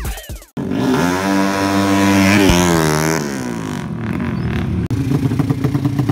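Racing motorcycle engine running at high revs, its pitch dropping about three seconds in, then running on lower.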